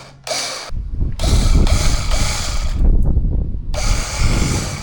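A power tool running in bursts: two short bursts at the start, then a long run with a deep rumble and a loud hiss, which briefly dies back near three seconds in before starting again.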